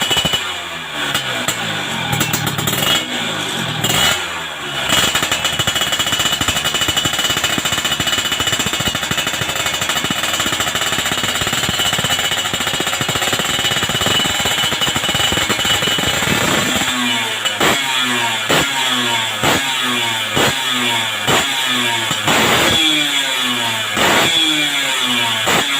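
Yamaha F1ZR two-stroke motorcycle engine revving through an AHM racing exhaust. It is held at high revs for most of the time, then from about two-thirds of the way in it is blipped over and over, about one rev-up a second.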